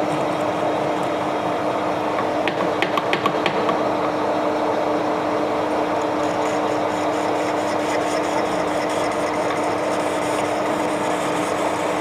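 Lathe running steadily with a constant motor hum, set up for facing a workpiece. Several sharp clicks come about three seconds in, and a faint fast ticking joins from about halfway.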